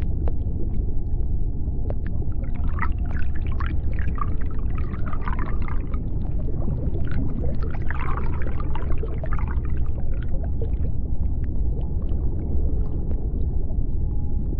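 Underwater sea-floor ambience: a steady deep rumble with scattered sharp clicks. Two stretches of busier, higher chirping sounds come about two seconds in and again about seven seconds in.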